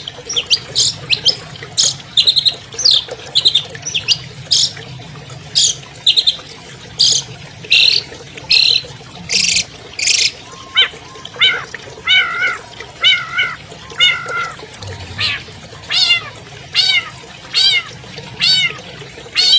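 Long-tailed shrike (cendet) song: a run of harsh, scratchy notes, then from about halfway a steady series of repeated mewing calls, a little more than one a second.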